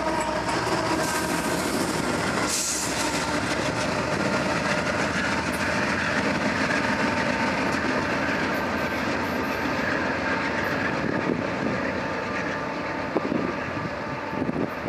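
BNSF train cars rolling past on the rails, a steady rumble with wheel clatter over the track. The sound eases slightly near the end.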